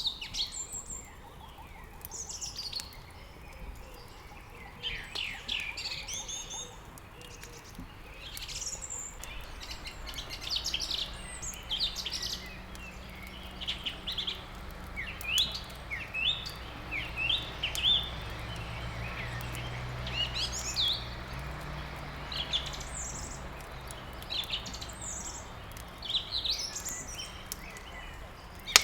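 Several small birds chirping and singing in quick, short, repeated phrases, with a low steady hum underneath from about ten seconds in.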